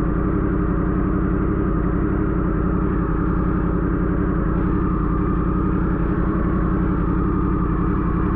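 Yamaha R1 sport bike's inline-four engine idling steadily.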